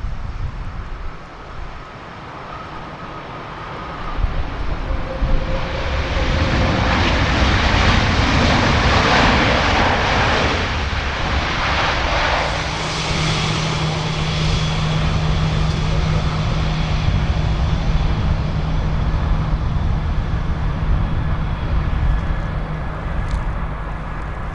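Jet airliner's engines passing close: the noise swells about four seconds in and is loudest midway, then settles into a steady engine whine over a low hum. Wind rumbles on the microphone throughout.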